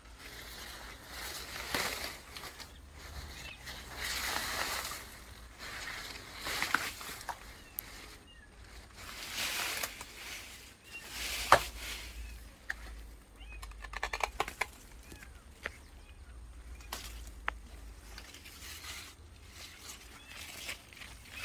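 Intermittent rustling that comes and goes in uneven swells, with scattered sharp clicks and snaps, the loudest a single snap about halfway through.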